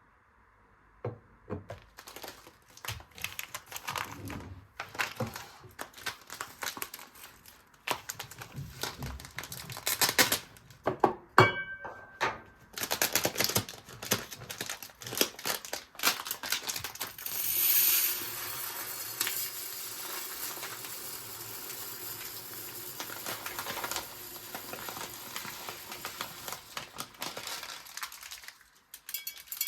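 Kitchen handling sounds: a run of irregular clicks, taps and clatter, with a few sharper knocks. About halfway through, a steady hiss sets in and lasts until shortly before the end.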